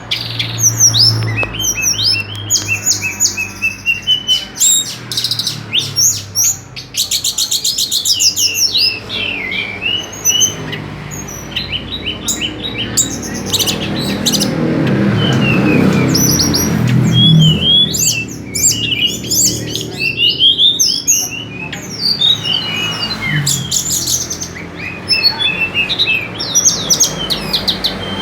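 A songbird singing a fast, varied stream of chirps, trills and quick up-and-down whistled notes, with a low background murmur swelling under it in the middle.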